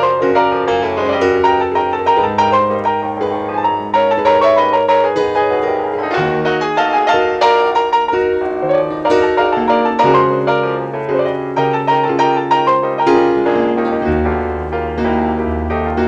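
Background music: solo piano playing a flowing run of notes over held bass notes.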